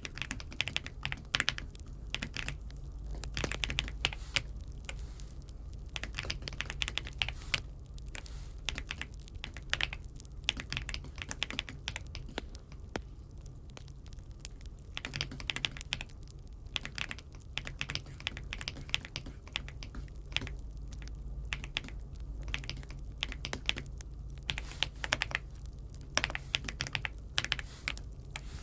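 Keystrokes on an Aula F75 mechanical keyboard, typed in irregular bursts of clicks with short pauses between, over a steady low hum.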